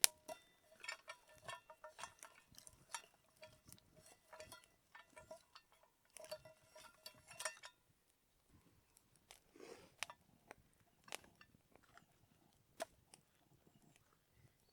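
Light clicking and clinking with a faint ringing tone, in quick runs through the first half. After a short pause come a few scattered clicks and soft rustles.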